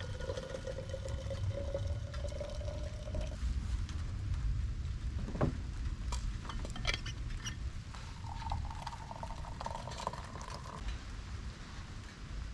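Just-boiled water poured into a cup, the pouring tone rising in pitch as the cup fills, then a few light clinks and a second, shorter pour, over a steady low rumble.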